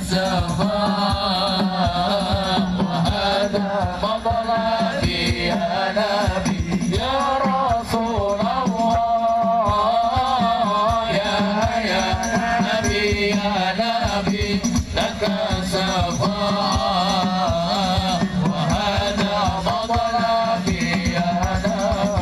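Sholawat, devotional Islamic praise singing, with a wavering, ornamented melody over continuous hand-drum accompaniment.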